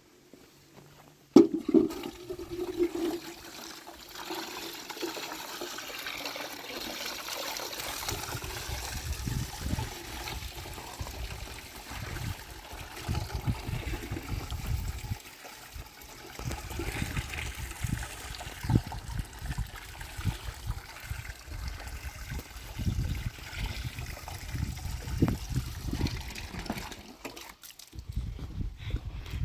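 Water rushing and splashing, starting suddenly a little over a second in.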